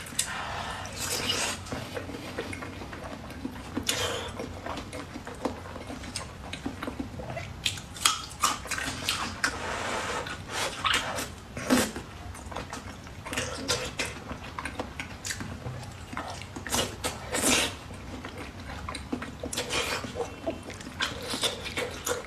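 Close-miked eating of a sticky glazed braised meat roll: biting and chewing with irregular wet smacks and clicks, a few of them louder.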